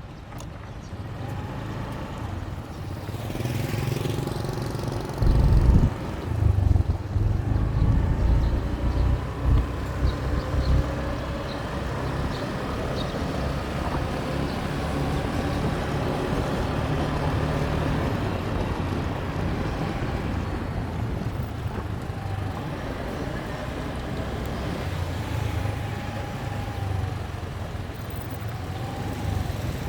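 Motorbike engine running during a ride, its pitch rising and falling with throttle and speed. Wind buffets the microphone in heavy gusts for a few seconds near the start.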